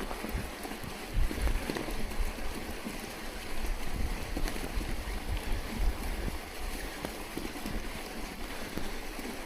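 Wind buffeting the microphone during a ride through snow: uneven low rumbling gusts over a steady hiss.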